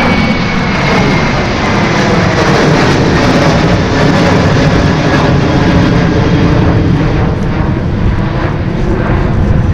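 Jet airliner passing close on the runway: a loud, steady engine rush with a high whine that falls slightly in pitch over the first few seconds, the noise easing near the end.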